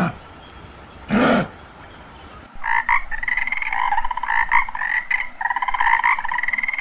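A short huff about a second in, then from about two and a half seconds a tree frog calling: fast pulsing croaks in repeated trills.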